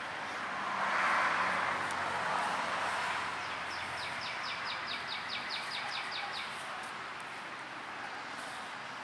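A small bird calling in a rapid run of short, high chirps, about five a second, from about three and a half to six and a half seconds in, over a steady background hiss. A brief swell of broad noise comes about a second in.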